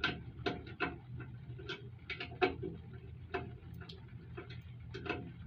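Irregular sharp metal clicks as bolts fitted with lock washers are worked tight with a hand tool, over a low steady hum.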